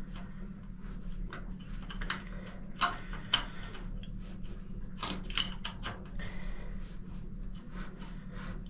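Spanner clicking and clinking on a diesel engine's glow plug in short irregular taps as it is worked back and forth to break carbon off the threads, over a steady low hum.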